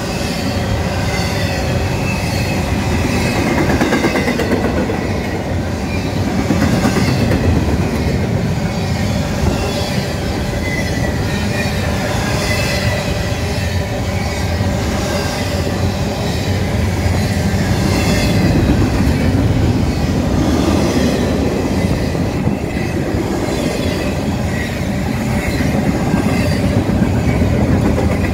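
Double-stack intermodal freight cars rolling past: a steady rumble of steel wheels on rail with repeated clacking over rail joints and a faint wheel squeal at times.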